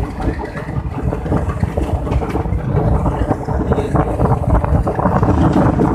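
Passenger train running at speed, heard from an open door or window of the train: wheels on the rails make a steady rushing noise with many short knocks, and wind buffets the microphone.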